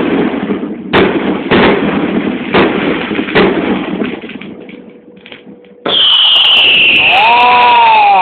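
Fireworks going off: a series of sharp bangs about once a second, each trailing off, then a sudden loud continuous hiss with a high, falling whistle.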